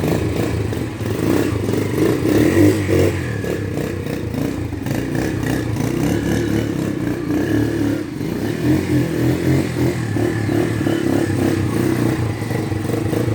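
Shineray Jef 150 motorcycle's 150 cc engine running steadily, swelling briefly about two and a half seconds in and again around nine seconds.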